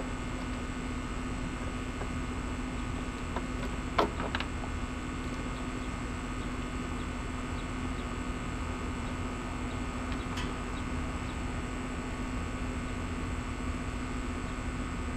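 Steady electrical or machine hum in a workshop, with a sharp click about four seconds in and a fainter click near ten seconds, typical of small plastic RC boat parts being handled on a workbench.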